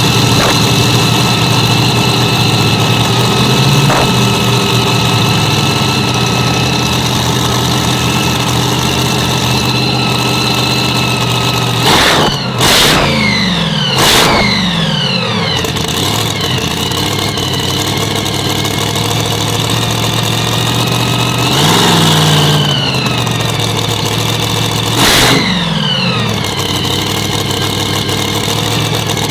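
Hemi V8 engine of a competition pulling tractor idling steadily during an engine test. Three quick throttle blips come a little before halfway, then a longer rev about three quarters through and one more short blip near the end, each dropping back to idle.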